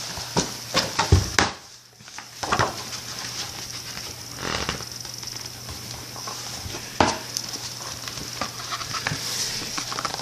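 Paper rustling and light knocks, as from a picture book being handled and its pages turned, over a steady faint hiss and low hum.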